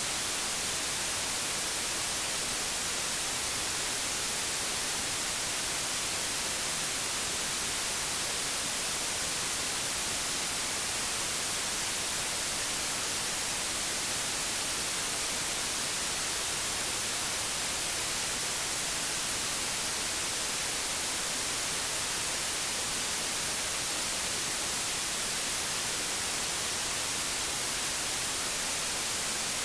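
Analogue television static: a steady, even hiss of white noise, brightest in the high end, with no change over its length.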